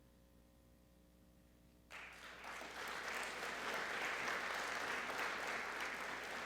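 Audience applauding. The clapping starts suddenly about two seconds in, after a near-silent pause.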